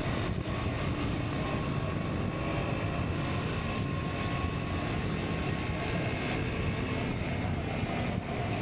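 KTM Duke 125's single-cylinder four-stroke engine running through an Akrapovic exhaust at a fairly steady pitch while riding, with wind rumble on the microphone.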